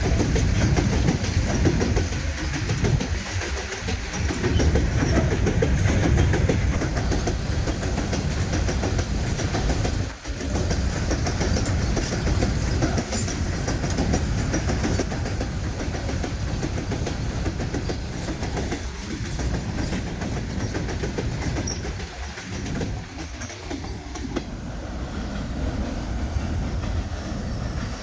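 Indian Railways goods train rolling along the track, its wagon wheels clattering over the rail joints in a steady rumble. The sound dips briefly about ten seconds in.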